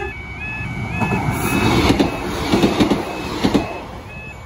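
Class 156 diesel multiple unit passing over the level crossing at speed: a rush of wheel and engine noise that builds and peaks midway with a few sharp clacks from the wheels, then fades. The crossing's two-tone warning alarm is heard at the start, then drowned out by the train.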